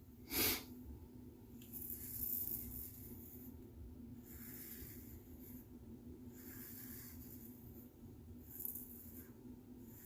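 Safety razor (Razorock Gamechanger .84 with a Polsilver blade) scraping through lathered stubble in soft, hissy strokes every second or two, the loudest one about half a second in, over a faint steady hum.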